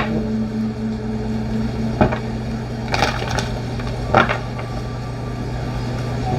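Tarot cards being handled on a table: a few sharp knocks about two, three and four seconds in, with faint rustling, over a steady low hum.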